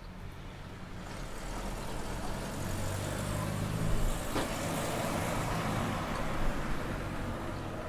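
A motor vehicle driving past, its engine hum and road noise growing louder to a peak a little past halfway, then easing off. There is a single sharp click about halfway through.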